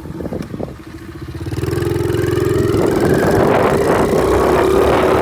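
Small single-cylinder pit bike engine running at low revs, then opened up about a second and a half in and pulling steadily, its pitch creeping slowly higher.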